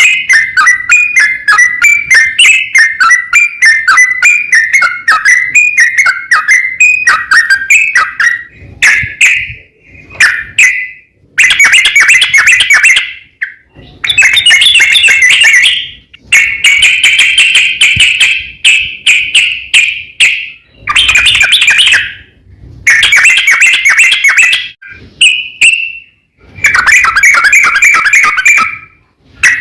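Yellow-vented bulbul (trucukan) singing loudly. First comes a quick run of repeated bubbly notes for about eight seconds, then a series of chattering phrases of one to two seconds each, with short pauses between them.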